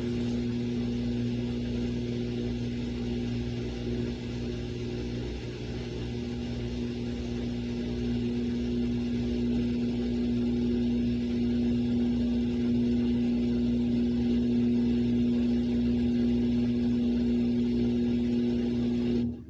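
Samsung washing machine running in its rinse cycle, a steady motor hum that cuts off suddenly near the end.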